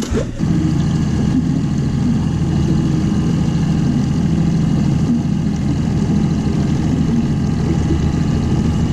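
Boat engine running steadily, a low even hum that comes in abruptly just after the start.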